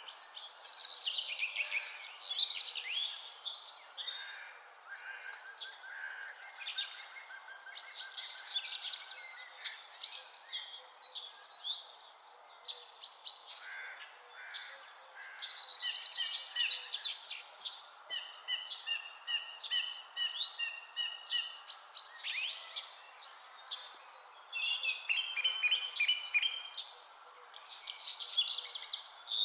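Several songbirds singing and calling over one another in quick, varied phrases, trills and chirps, over a steady background hiss.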